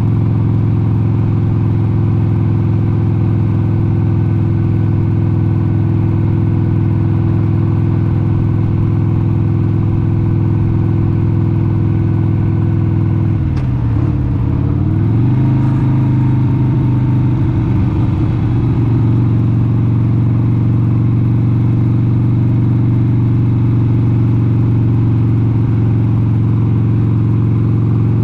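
1996 Harley-Davidson XLH883 Sportster's 883 cc air-cooled V-twin running steadily at cruising speed. About halfway through, the engine note dips and wavers for a few seconds, as with a throttle change or gear shift, then settles steady again.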